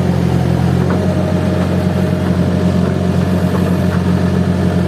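Diesel engine of a Case heavy machine running steadily, a loud even drone.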